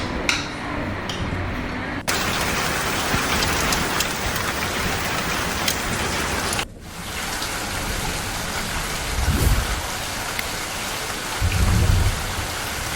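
Steady rain falling, changing abruptly in texture twice, about two seconds in and again near the middle. Low rumbles of thunder come about two thirds of the way through and again near the end.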